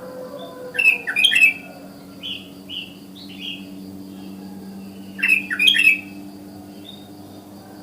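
Sooty-headed bulbul calling: two loud bursts of quick chattering notes, about a second in and again about five seconds in, with a few softer single notes between.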